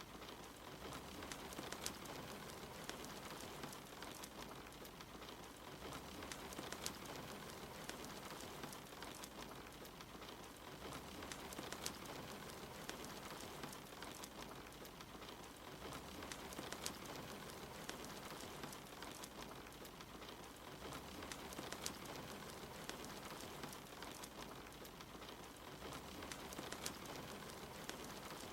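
Steady rain falling with a wood fire crackling, sharp pops standing out of the hiss. The same pattern of louder pops recurs about every five seconds, as in a short loop.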